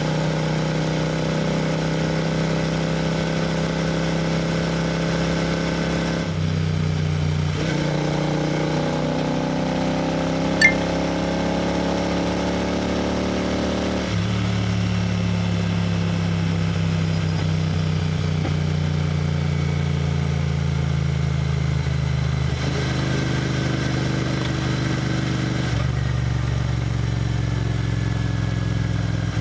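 Royal Enfield GT 650's 648 cc parallel-twin engine running steadily at highway speed. The engine note shifts pitch several times as the throttle and gears change. A brief sharp sound cuts in about ten seconds in.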